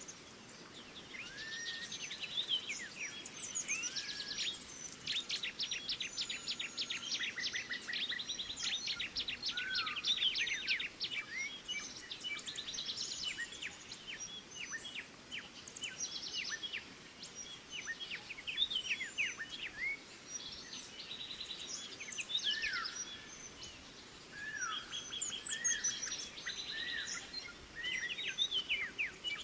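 Several small songbirds calling together in fast overlapping chirps, rapid rattling trills and short down-slurred notes, with brief lulls between bursts.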